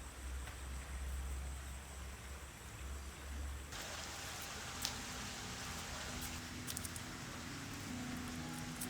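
Low rumble with a faint high steady tone, then about four seconds in a steady hiss of rain starts abruptly. Soft plucked notes of background music come in under it.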